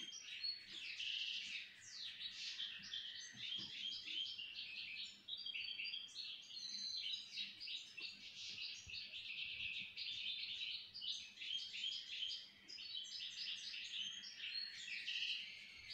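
Small birds chirping and twittering in a dense, busy run of short high notes.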